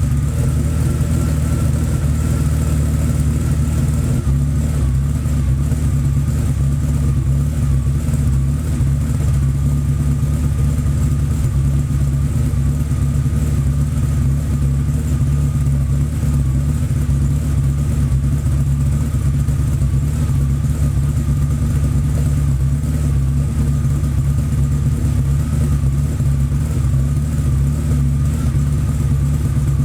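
BMW 850 (E31) V12 engine idling steadily while warming up after a cold start; the idle settles slightly lower about four seconds in.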